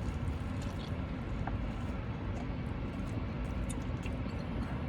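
A person chewing a bite of crispy chicken burger, with a few faint mouth clicks over a steady low background hum.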